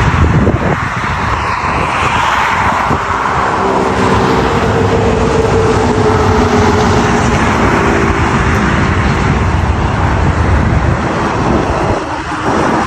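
Road vehicle driving at speed on a highway: steady tyre and wind rush, with an engine hum that comes in and then fades in the middle.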